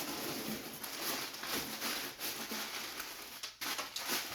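Packaging rustling as items are handled and lifted out, with scattered light taps and clicks.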